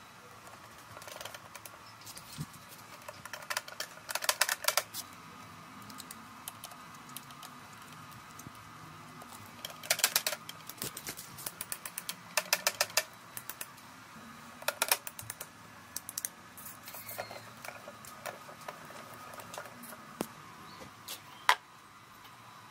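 Short runs of rapid mechanical clicking, several seconds apart, with a single sharp click near the end, over a faint steady hum.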